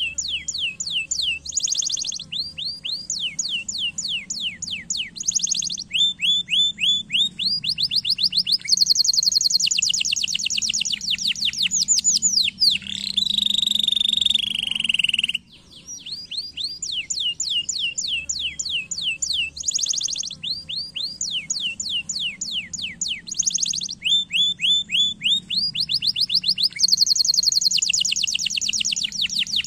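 Domestic canary singing: fast trills of short downward-sweeping notes in repeated rolling tours, broken by a lower slurred glide. After a brief break about halfway, the same song sequence plays again.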